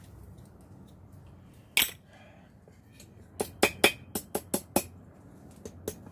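Sharp clinks of steel on steel while the hot knife stock is handled after twisting: one clink about two seconds in, then a quick run of about seven clinks.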